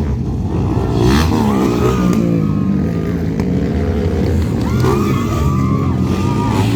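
Several motocross bikes' engines running on the track, their pitch rising and falling as the riders open and close the throttle.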